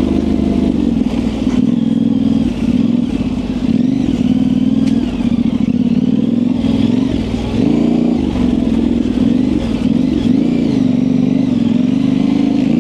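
Yamaha Ténéré 700's parallel-twin engine running through an aftermarket high exhaust. Its pitch rises and falls again and again as the throttle is worked.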